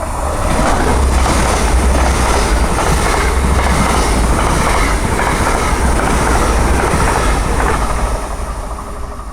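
Hitachi Class 800-family high-speed train passing through a station: a loud rumble of wheels on rails and running gear that builds, holds steady for several seconds and fades away near the end.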